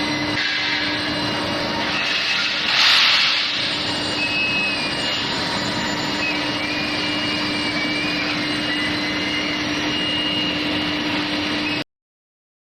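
Steady industrial noise of a steel billet induction heat treatment line running, with a constant low hum and a brief louder hiss about three seconds in. The sound cuts off suddenly near the end.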